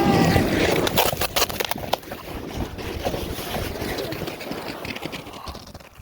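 A sled sliding fast down a snowy hill: the scraping hiss of snow under the sled and wind on the microphone, with a run of sharp knocks from bumps in the first two seconds, fading as the ride slows. A long, held high-pitched cry ends about half a second in.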